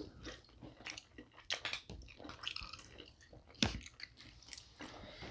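Two people chewing and biting snow crab meat in seafood-boil sauce close to the microphone: irregular chewing noises and mouth clicks, with one louder bite about two thirds of the way in.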